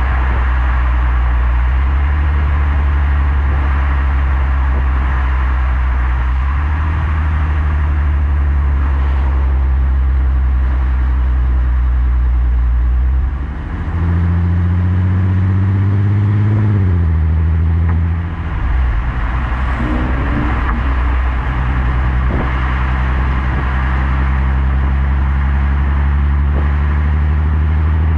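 Skoda Superb 3.6 FSI VR6 engine heard through a Gestec cat-back exhaust, running at a steady cruise. About halfway through the note dips briefly and comes back higher, climbs for a few seconds, then after another brief dip settles back to a lower, steady drone.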